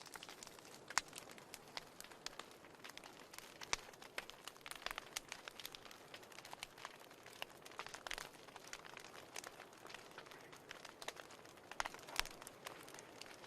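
Wood fire in a fireplace crackling: irregular sharp pops and snaps over a faint steady hiss, with a few louder pops about a second in, near four seconds, around eight seconds and near twelve seconds.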